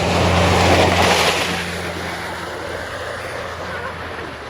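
A motor vehicle's engine running with a steady low hum, under a rushing noise that swells about a second in and then eases off.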